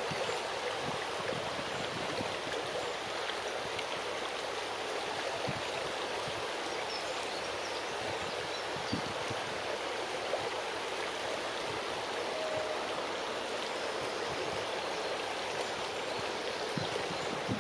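Strong wind rushing steadily through a large tree's leaves, with a few brief low thumps of wind buffeting the microphone.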